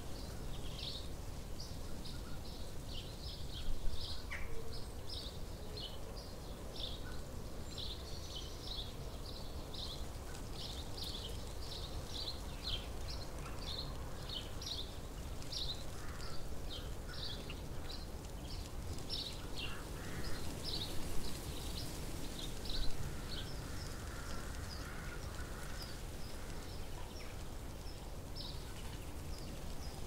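Small songbirds chirping outdoors: short, high chirps repeated about twice a second, thinning out near the end, over a steady low background rumble.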